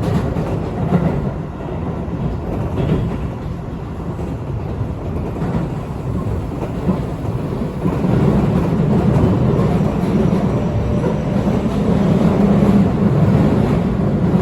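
Keio 8000 series electric train running at speed between stations: a steady rumble of wheels on rail and running gear, which grows louder about eight seconds in.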